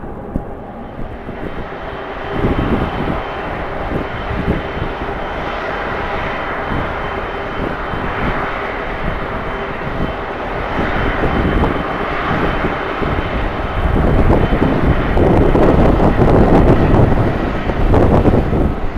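Jet airliner engines running with a steady whine and growing louder about three quarters of the way in, over wind buffeting the microphone.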